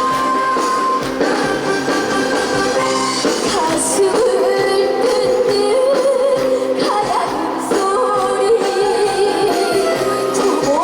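Trot song performed live: a girl's singing voice over a band backing track. The accompaniment plays alone at first, and the wavering sung melody comes in about four seconds in.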